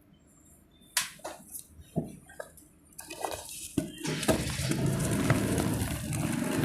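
Dry multani mitti (fuller's earth clay) snapping and crumbling. A few sharp separate cracks come about a second in, then from about three seconds a dense, steady crackle of crumbling that grows louder.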